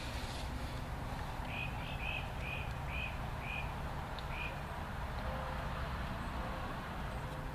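An animal calls in a run of about seven short, high, evenly spaced notes, roughly two a second, over a steady low rush of background noise.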